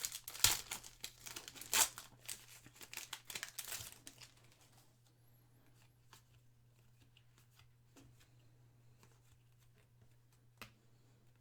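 Foil trading-card pack being torn open and its wrapper crinkled, a dense crackling for about four seconds, then quieter with a few faint clicks as the cards are handled.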